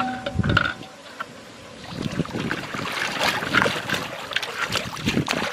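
Water splashing and sloshing, a rapid run of small splashes that starts about two seconds in after a brief quieter gap.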